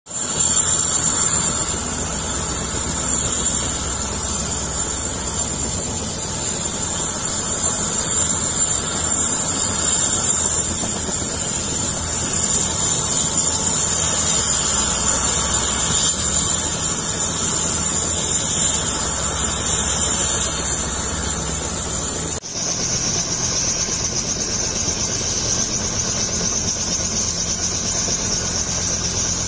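Helicopter turbine engine and rotor running on the ground before takeoff: a steady high whine over a low, even rumble. About three quarters of the way through, the sound breaks briefly and the whine comes back slightly lower.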